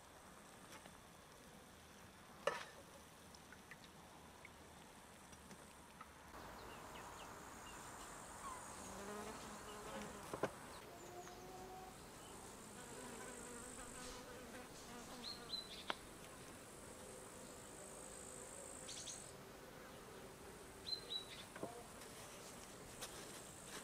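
A flying insect buzzing, from about six seconds in until near the end, over a high steady insect trill. There are a few short bird chirps and some light clicks.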